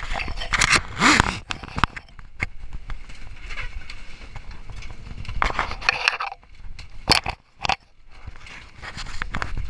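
Handling noise on the camera's own microphone as it is held and passed: irregular scrapes, rustles and sharp knocks, with short scraping stretches about a second in and again past the middle.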